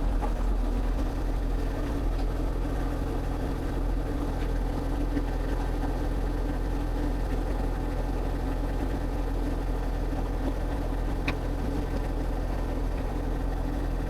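Excavator's diesel engine running steadily under digging work, with one short click about eleven seconds in.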